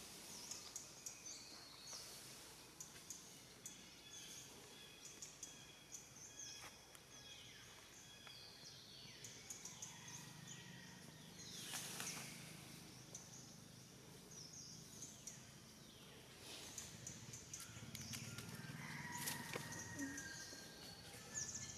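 Faint outdoor ambience of bird calls: scattered short chirps and falling whistled notes, with a longer held call near the end.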